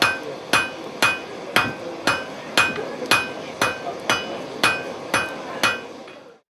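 Blacksmith's hand hammer striking hot steel on an anvil while drawing it down to a point: a steady run of ringing blows, about two a second, stopping near the end.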